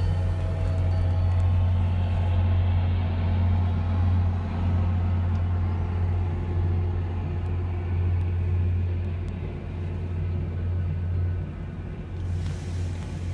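Diesel locomotive of an arriving commuter train running with a steady deep rumble, easing off a little near the end.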